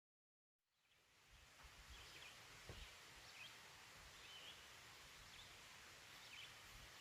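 Quiet woodland ambience fading in about half a second in: a steady soft hiss with faint, short high chirps every second or so, and light low rumble from wind on the microphone.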